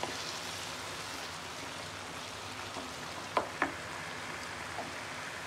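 Thick spiced pumpkin sabzi sizzling steadily in a pan on the heat. About three and a half seconds in, there are two quick knocks of the wooden spatula against the pan.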